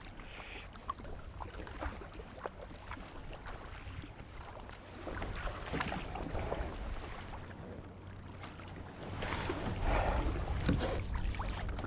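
Water lapping and splashing around a sea kayak, with wind buffeting the microphone and scattered small knocks and splashes; it grows louder near the end.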